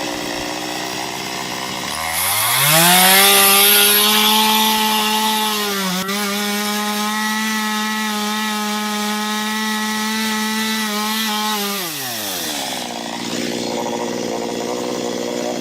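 Small chainsaw with a 15-inch bar idling, then revving up about two seconds in and running at full throttle as it cuts into ash wood for about ten seconds, with a brief dip partway through. Near the end it drops back to idle. This is the finishing cut on one side of the tree's plunge cut and hinge.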